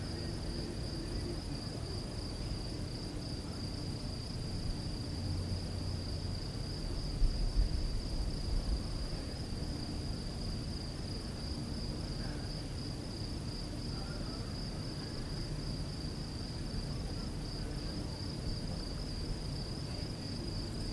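Crickets singing at night in a steady, high, slightly pulsing chorus. Underneath runs a low rumble that swells briefly about seven seconds in.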